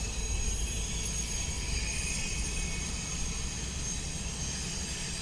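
Diesel freight locomotives passing close by: a steady low engine and rail rumble with a thin, high-pitched whine over it.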